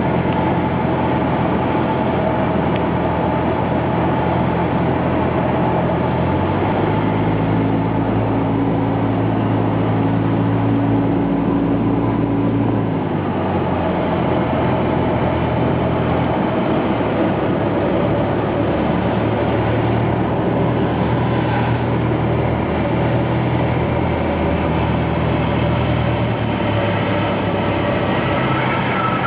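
Cessna 172 light aircraft's piston engine and propeller running with a steady drone. Its pitch shifts a few times as the power setting changes during the landing.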